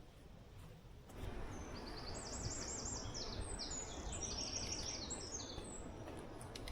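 A songbird singing a quick phrase of rapidly repeated high notes, over a steady rushing noise that sets in about a second in.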